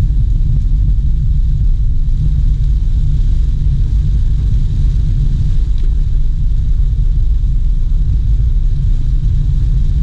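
Steady low rumble of a car on the move: engine and road noise, even and unbroken.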